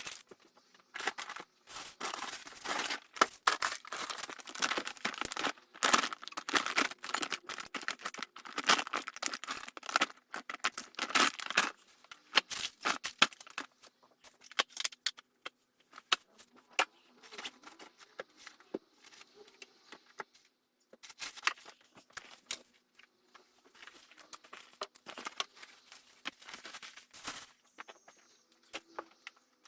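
Rustling, crinkling and knocking of things being handled during cleaning, in irregular bursts, busiest in the first dozen seconds and sparser after.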